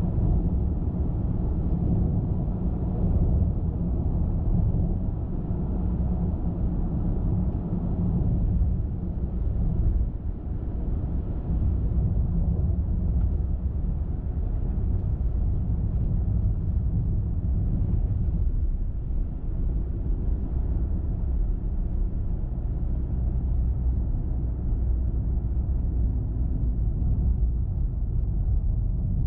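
Car driving along a road: a steady low rumble of tyre and engine noise, easing slightly about eight seconds in.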